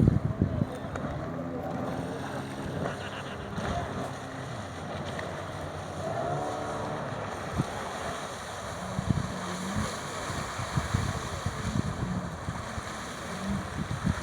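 Motorboat running on the water, with wind buffeting the microphone in irregular low thumps.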